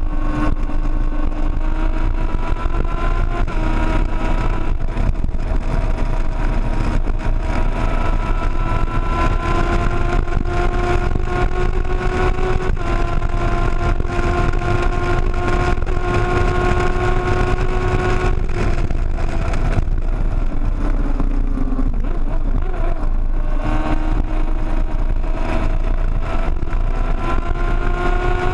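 Sportbike engine running hard at highway speed, its note climbing slowly and holding high. About two-thirds of the way through it drops and wavers as the throttle eases, then pulls up again. Heavy wind rumble runs underneath.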